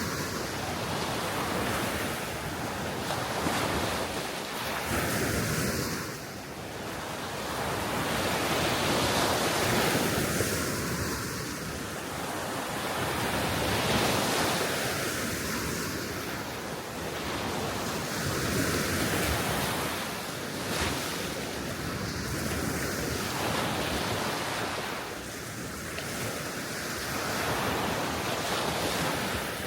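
Gentle sea waves washing onto the shore, swelling and falling back every few seconds, with wind blowing across the microphone.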